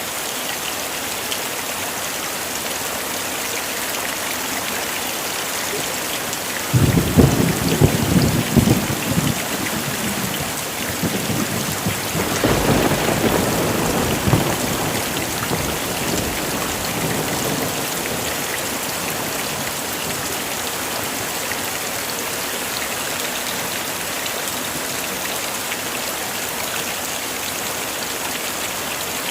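Heavy rain falling steadily. About seven seconds in, thunder breaks suddenly and rumbles for a few seconds; a second rolling rumble follows a few seconds later and fades away slowly.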